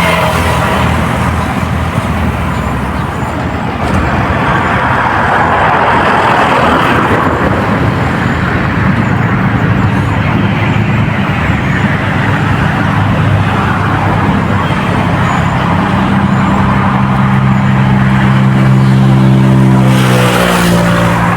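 A motor engine running steadily with a low hum, its pitch shifting near the end as it changes speed or moves away.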